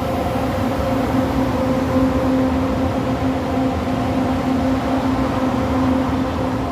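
LRT Line 2 electric train running at a steady speed: a continuous rumble with a held, even motor hum.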